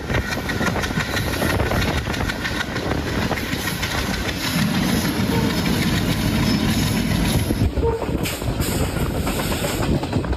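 Passenger train running, its wheels clacking over rail joints over a steady rumble.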